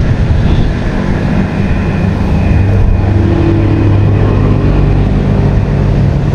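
A motor engine running steadily over a low rumble, its hum growing stronger about a second and a half in.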